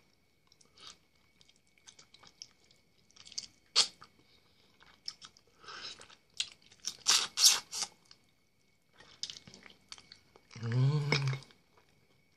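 A person biting and chewing food held in the fingers, with scattered sharp crunching bites, the loudest about seven seconds in. Near the end comes a short hummed sound from the eater.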